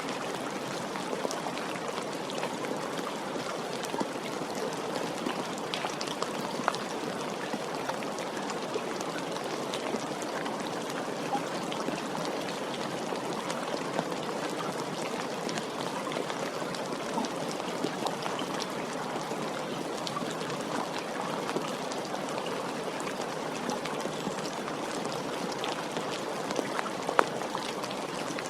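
Steady rain falling, an even wash of water with scattered individual drops ticking on surfaces.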